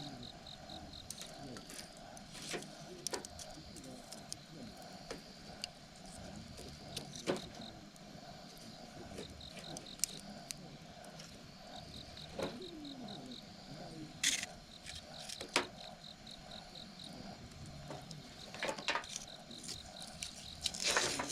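Campfire crackling, with irregular sharp pops and snaps of wood, a few louder ones near the middle and toward the end. An insect chirps in short, evenly pulsed runs in the background, coming and going several times.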